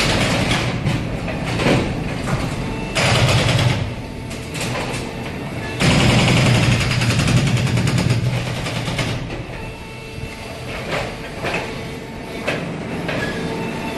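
Demolition robot at work: rumbling machine noise with clattering, in segments that start abruptly about 3 and 6 seconds in.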